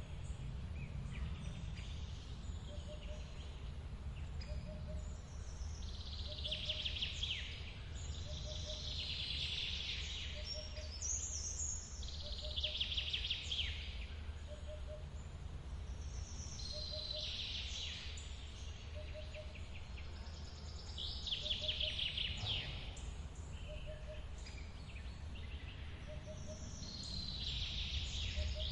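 Steady low rush of a forest waterfall, with a bird singing a trilling song phrase that recurs every three to four seconds. A faint short double note repeats about every second and a half underneath.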